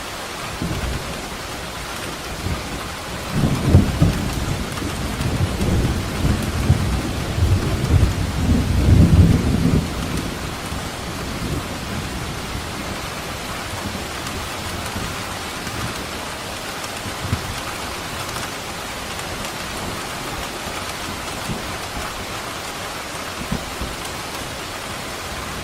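Steady heavy rain with a long roll of thunder rumbling from a few seconds in to about ten seconds, then rain alone with a few faint distant rumbles.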